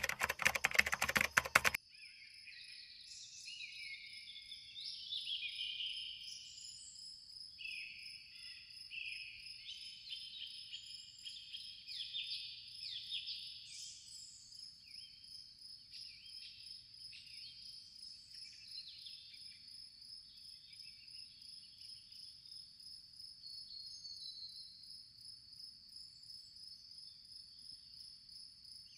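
Nature ambience: a steady high-pitched insect trill with many short bird chirps and calls over it. It opens with a loud rapid crackle that stops about two seconds in.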